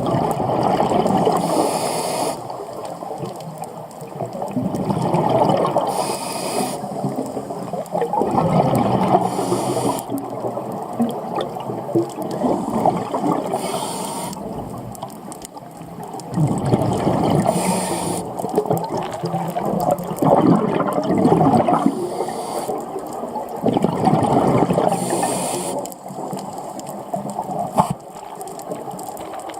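Scuba diver breathing through a regulator underwater: a short hiss on each inhalation every few seconds, each followed by a long gurgling rush of exhaled bubbles.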